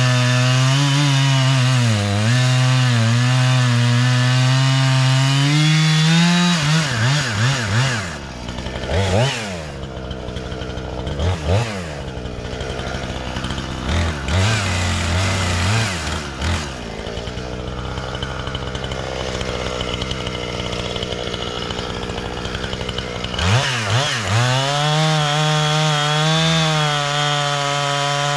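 Two-stroke chainsaw, a Husqvarna 460 Rancher, cutting under full throttle with a steady high engine note that dips briefly as it bogs in the wood. After about seven seconds it drops to a lower, quieter running note with several short revs. Near the end it goes back to full throttle in the cut.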